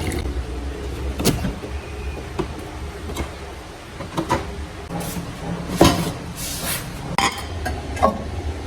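A series of sharp knocks and light clinks, roughly eight over several seconds, the loudest a little past halfway: kitchen things being handled and set down. A faint steady low hum runs beneath.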